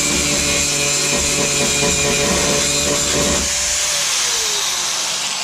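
Handheld power grinder running at full speed on the steel door repair, then released about three and a half seconds in and spinning down with a falling whine.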